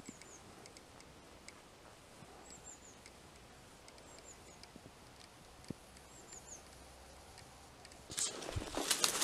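A small bird's high, thin call, a quick run of three or four falling notes, repeated several times over quiet outdoor background. About eight seconds in, louder footsteps and rustling start as the person walks off.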